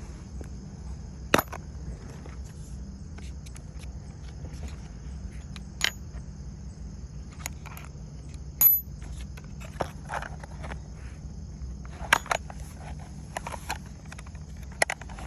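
Tools and gear being handled: scattered sharp clicks and knocks, the loudest about a second and a half in, at six seconds, near nine seconds and at twelve seconds. A steady high drone of insects runs underneath.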